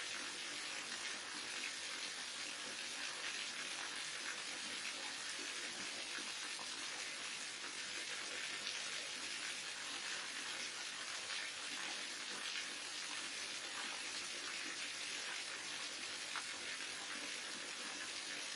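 A waterfall rushing: a steady, even splash of falling water that holds at one level throughout, with no change.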